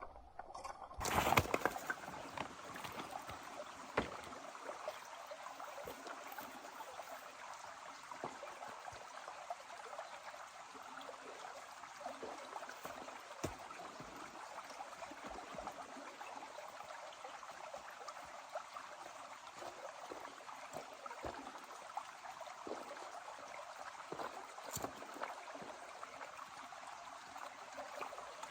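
Stream water running steadily, with a wood fire crackling in scattered sharp pops over it; a louder rush of noise comes about a second in.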